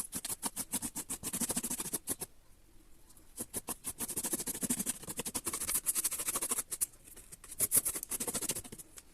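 Rapid scratching strokes, several a second, in three runs separated by short pauses.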